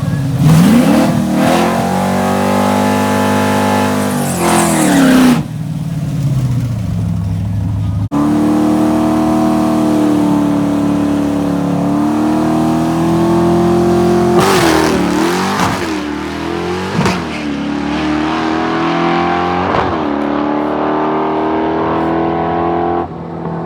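Fox-body Mustang drag car's 5.0 V8 with open exhaust revving up in rising sweeps for the first five seconds. After a break it runs at a steady pitch with a few quick blips.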